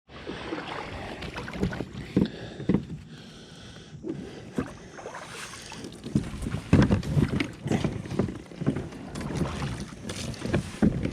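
Irregular knocks and bumps on a small boat, as gear is handled and the hull is jostled, over a steady background hiss.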